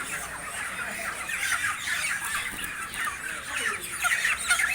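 A flock of broiler chickens squawking and clucking, a dense chorus of short, overlapping calls, loudest near the end.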